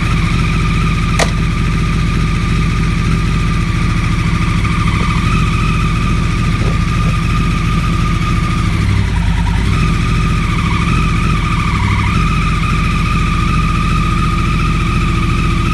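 2009 Yamaha R1's inline-four engine running at a steady idle with a high whirring whine over the engine note, the noise the owner is asking about. The whine and engine note waver briefly about two-thirds of the way through, then settle.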